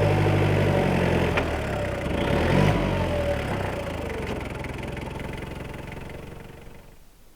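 A vehicle engine running, with a brief change in pitch in the middle, then fading steadily away over the last few seconds.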